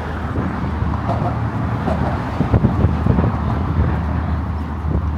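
Steady rumble of road traffic on the bridge, with faint voices of people passing.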